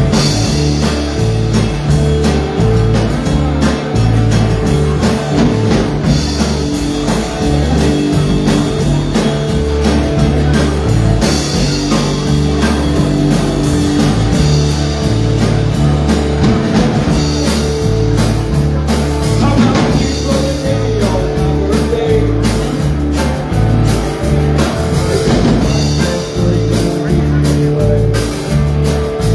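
Live band playing a rock song, with a bass line that changes note every half second or so under a steady beat.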